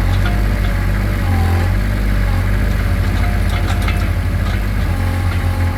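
Small ride-on excavator's engine running steadily with a low hum, working the hydraulic claw. A few clicks and knocks come about three to four and a half seconds in.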